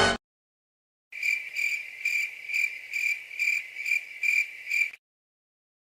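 Crickets chirping, the stock 'awkward silence' crickets sound effect: about nine steady, evenly spaced high chirps, a little over two a second, starting about a second in and stopping near the end.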